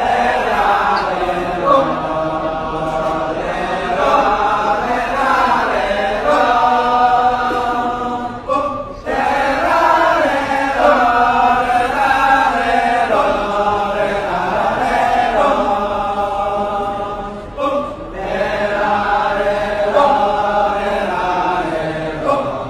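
Group of voices chanting together in a Balinese kecak performance, holding long notes that rise and fall, with short pauses about nine and eighteen seconds in.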